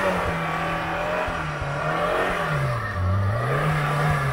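Chevrolet Niva's four-cylinder petrol engine held at high revs as its wheels spin on ice and packed snow on a climb. The revs sag briefly about three seconds in, then rise again.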